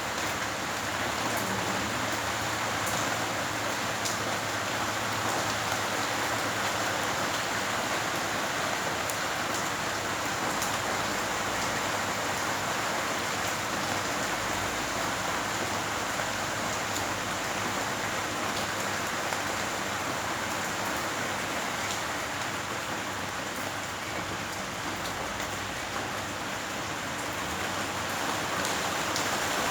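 Steady rain falling, an even continuous hiss with a few faint drop ticks.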